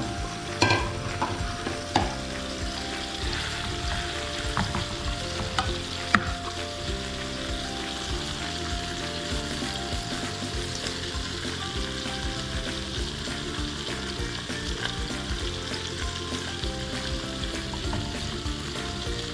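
Steak and vegetables sizzling steadily in a non-stick frying pan on an electric hotplate, with a few sharp clicks of a spatula against the pan in the first several seconds. Soft background music runs underneath.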